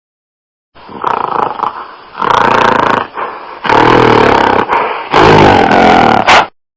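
Calls of a herbivorous animal: about four loud, rough calls in a row, cut in and ending abruptly.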